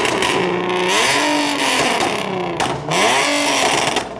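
Car engine being revved up and dropping back about three times, its pitch climbing and falling with each rev.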